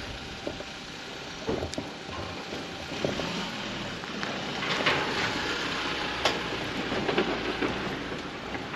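Wind buffeting the microphone outdoors: a steady rushing noise that swells in the middle, with a few light knocks.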